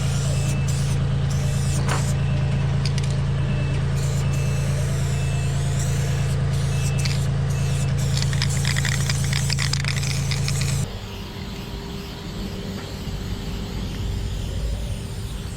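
Engine of a basket boom lift running steadily with a deep hum, with faint short high beeps repeating in the first half. The engine stops abruptly about eleven seconds in.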